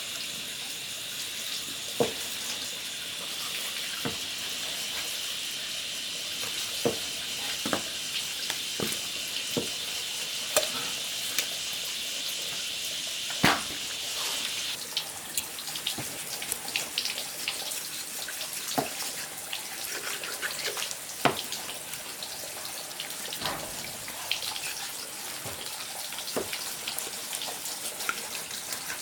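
Water running from a tap, with scattered knocks and clinks of things being handled under it. The steady flow stops about halfway through, leaving dripping and more handling knocks.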